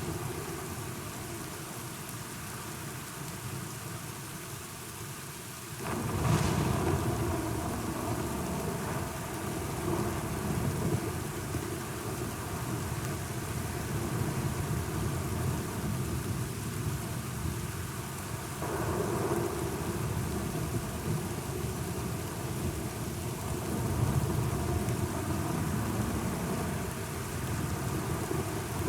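Steady rain with thunder. About six seconds in, a sharp thunderclap gives way to low rolling rumble. A second swell of thunder comes about eighteen seconds in.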